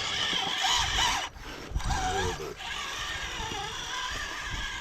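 Small electric motor of a radio-controlled rock crawler whining in short bursts that rise and fall in pitch as the throttle is worked, over wind noise.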